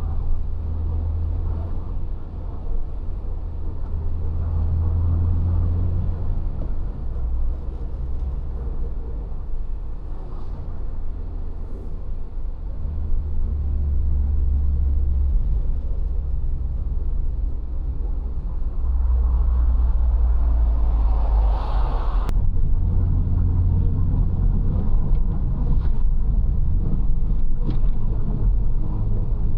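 A 1995 Citroën XM running along the road: a steady low engine-and-road rumble that swells and eases in stretches of several seconds, with a single sharp click about 22 seconds in.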